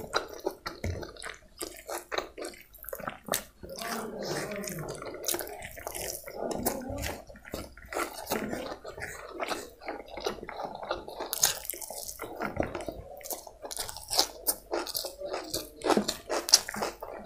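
Close-miked chewing and wet mouth smacking while eating chicken biryani by hand: a steady run of short, sticky, wet clicks.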